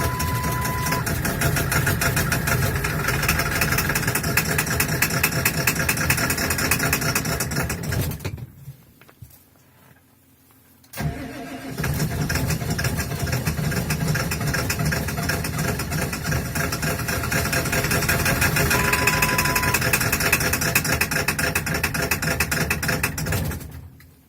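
Ford 7.3 L Powerstroke turbo-diesel V8 cranking hard in an extreme cold start at about −35 °C, in two long attempts of about eight and thirteen seconds that each stop, with a short pause between. The owner puts the hard starting down to bad injectors.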